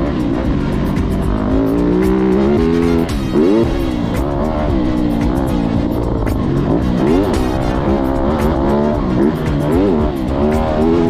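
Motorcycle engines revving up and down over and over, their pitch rising and falling again and again.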